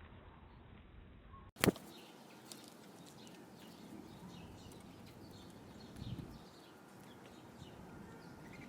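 Faint outdoor ambience with small birds chirping softly. There is a sharp click about one and a half seconds in and a soft low thump around six seconds.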